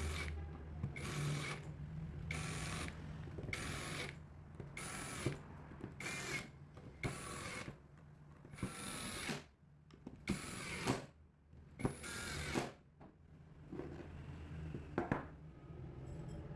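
Hand tool worked in steady back-and-forth strokes, about one a second, each a scraping rasp with a faint metallic ring. The strokes stop near the end, leaving a few scattered knocks over a steady low hum.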